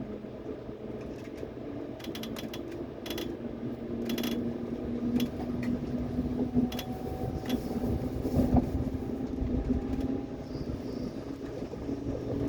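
Subway train running: a steady rumble of the car on the track, with a run of sharp clicks about two to four seconds in and a louder surge near the middle.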